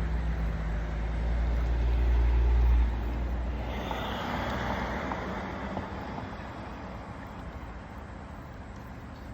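A car engine running with a steady low hum that grows louder and then cuts off about three seconds in, followed by the hiss of road noise from a passing vehicle that swells and slowly fades.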